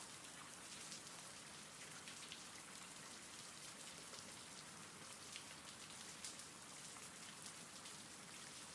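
Faint, steady rain, with many small drops ticking on a surface.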